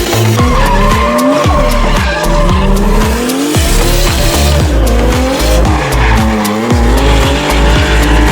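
A drifting car: tyres squealing and the engine revving up and down, mixed over hip-hop music with a heavy bass beat.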